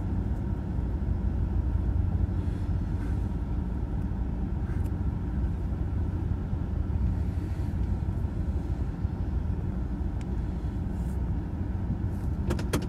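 Steady low rumble of a freight train's cars rolling past a grade crossing, heard from inside a stopped car's cabin. A few sharp clicks come near the end.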